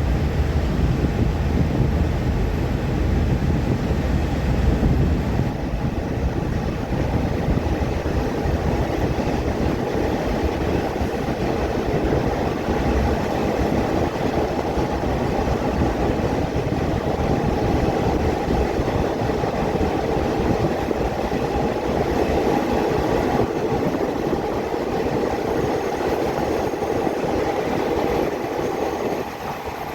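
Passenger train running along the track after pulling out of a station: a steady rumble of wheels and carriage noise, slightly quieter near the end.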